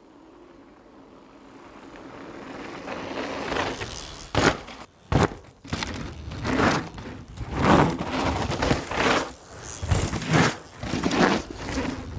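Mountain bike ridden fast down a dirt trail. Tyre and rushing noise builds over the first few seconds, then comes in repeated loud surges of tyres crunching and scraping over the dirt, with two sharp knocks around four and five seconds in.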